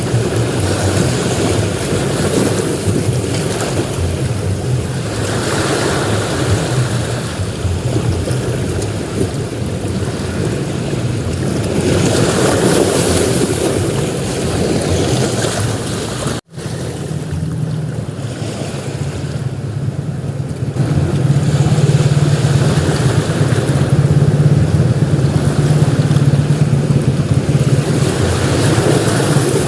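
Ocean surf breaking and washing on a beach, swelling and ebbing every few seconds, with a low rumble that grows louder in the second half. The sound cuts out for an instant a little past halfway.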